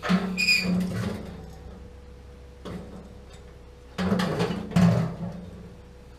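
Metal tools and fittings being handled and clanked while working on a gas water heater: two bursts of clattering, the first with a brief ringing metallic ping, and a second burst about four seconds in.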